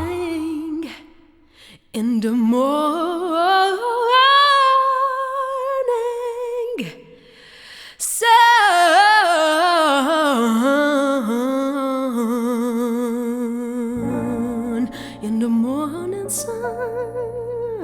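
Wordless singing: a voice hums the melody of a soul song in long held notes with a wavering vibrato. A low accompaniment joins about fourteen seconds in.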